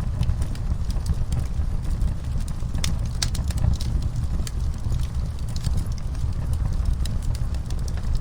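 Wood fire crackling, with sharp pops at irregular moments over a steady low rumble of burning.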